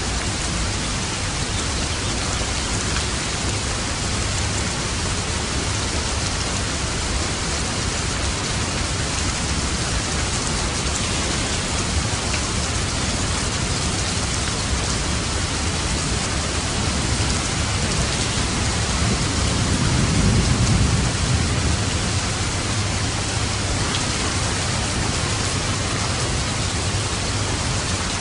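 Steady, heavy rain falling, with a low rumble of thunder swelling and fading about two-thirds of the way through.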